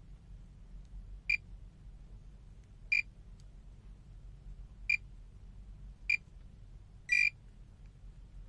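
Digital multimeter beeping: four short, high-pitched beeps a second or two apart, then a slightly longer beep about seven seconds in.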